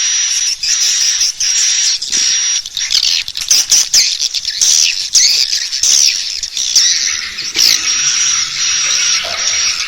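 Swiftlet lure call: dense high chirps and twitters of swiftlets, with a held high note that repeats about once a second, the sound played in swiftlet houses to draw the birds in to roost.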